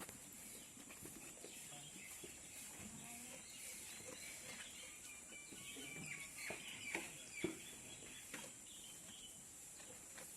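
Faint bird calls, busiest in the middle stretch, with a few short knocks over a steady high hiss.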